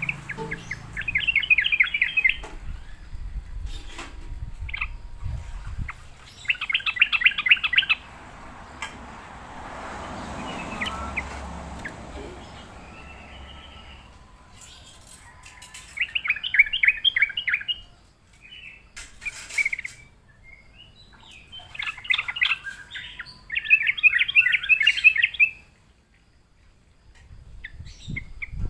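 Yellow-vented bulbul (trucukan) singing: about five phrases of rapid chattering notes, each one to two seconds long, separated by pauses, with a few short clicks in between.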